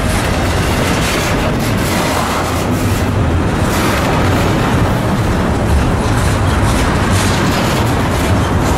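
A train passing at close range: a loud, steady rumbling noise that does not let up.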